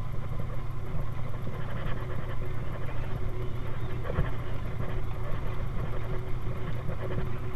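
1931 Ford Model A speedster's four-cylinder engine running steadily as the open car drives along, heard from on board, with one brief thump about four seconds in.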